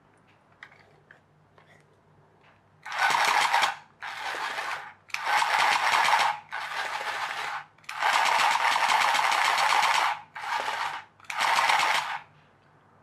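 A small motor whirring in seven short bursts of about half a second to two seconds each, starting and stopping sharply.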